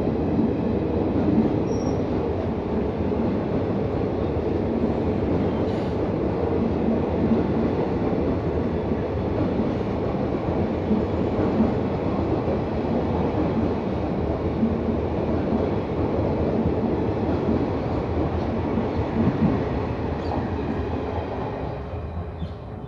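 Indian Railways passenger coaches rolling slowly past at close range: a steady rumble of steel wheels on the rails. The sound fades over the last two seconds as the last coach draws away.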